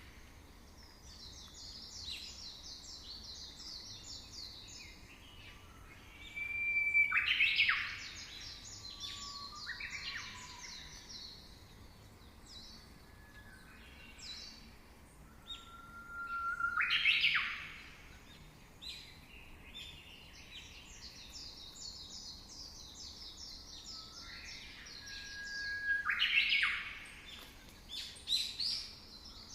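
Birdsong: the same phrase repeats about every nine to ten seconds, a short clear whistle, then a loud chirping burst, then a long high rapid trill.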